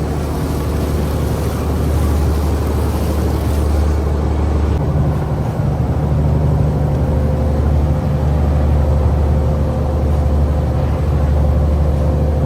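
Fishing boat's engine running steadily, a loud low hum whose note shifts slightly about five seconds in.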